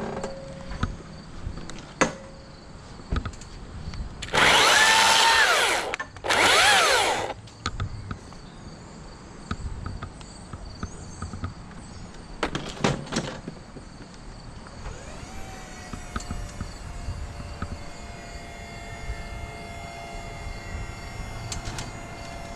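A power tool revs in two short bursts, the pitch rising and falling, a few seconds in, and gives a briefer burst later. In the last third a steady machine hum with a held tone sets in.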